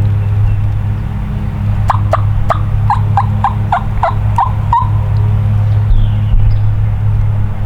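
A run of about ten turkey yelps, evenly spaced at roughly four a second, the last note drawn out a little longer.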